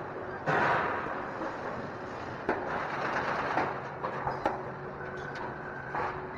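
Automated factory machinery on a water heater inner-tank production line running, with two louder spells of hissing about half a second and two and a half seconds in, sharp mechanical clicks and knocks, and a steady hum.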